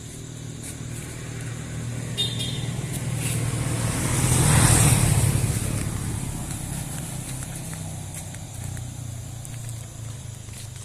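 A motor vehicle passing by: its engine and tyres grow louder, peak about halfway through, then fade away.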